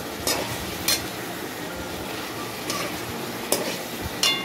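Mutton pieces sizzling as they fry in a kadai while a metal spatula stirs them, scraping and clanking against the pan several times; one clank near the end rings briefly.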